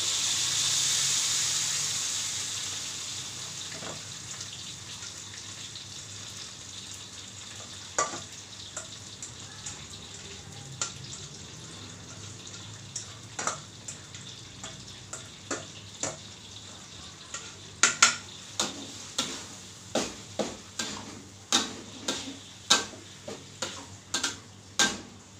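Blended green chili paste poured into hot oil in a wok: a loud sizzle that fades over the first few seconds into a steady frying hiss. A metal spatula knocks and scrapes against the wok, the knocks coming more often, about one or two a second, in the second half.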